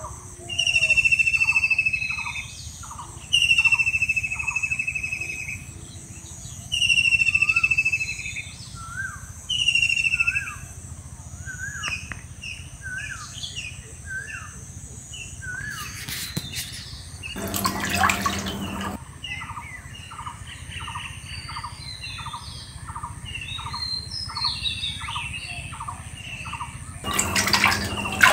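Birds calling: a loud, long, high call repeated four times in the first ten seconds, over a steady run of short, lower notes about two a second and a thin, steady high tone. About two-thirds of the way through, and again near the end, a burst of rushing noise lasting a second or so cuts across it.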